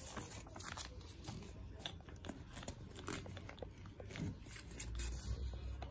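A sheet of paper being folded and creased by hand: faint, scattered crinkles and scratchy rustles.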